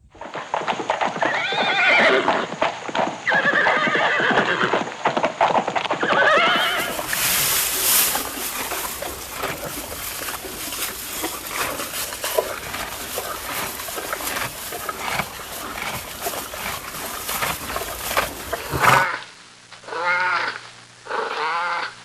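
Horses whinnying, three wavering calls in the first few seconds. Then comes a long noisy stretch full of quick sharp strokes, and three short high calls near the end.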